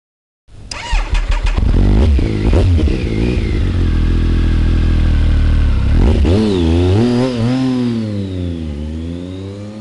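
Motorcycle engine starting with a short burst of sputtering, running steadily, then revved up and down several times, fading near the end.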